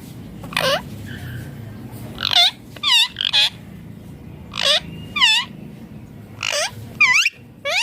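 Rose-ringed parakeet (Indian ringneck parrot) calling: about nine short, shrill screeches, mostly in pairs.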